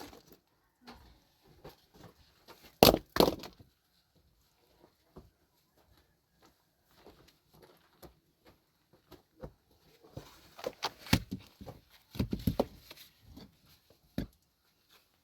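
A series of knocks and clatter: two loud strikes about three seconds in, scattered small clicks, then a quicker run of knocking from about ten seconds.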